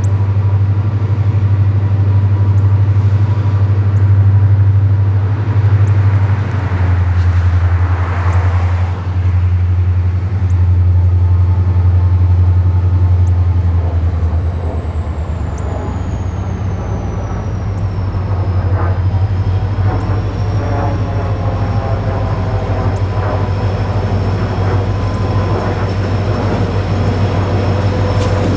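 A train running close by, with a loud, steady low drone from the locomotive. A faint high whine slowly falls in pitch about halfway through.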